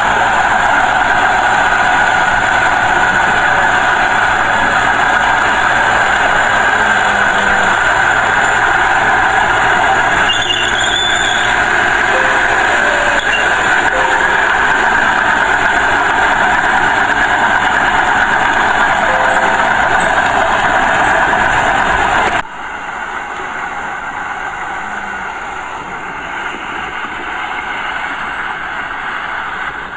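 Small Komatsu bulldozer working, its diesel engine running steadily under load. About three-quarters of the way through, the sound drops abruptly to a quieter level and continues.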